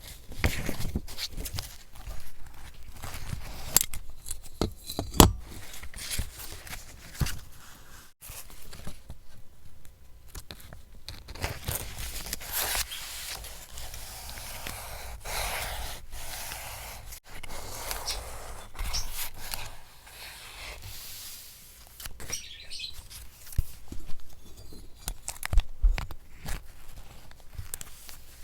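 Paper being handled for a collage: rustling, sliding and tearing, with many short taps and clicks scattered throughout.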